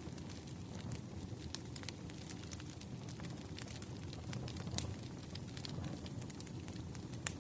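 Wood fire crackling: a steady low rumble of burning logs with irregular sharp pops, one louder pop near the end.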